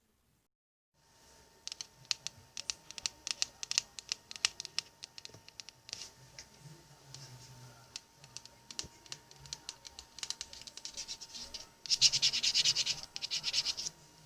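Quick run of small clicks and scratching strokes, close to the microphone, with a louder stretch of dense scraping near the end.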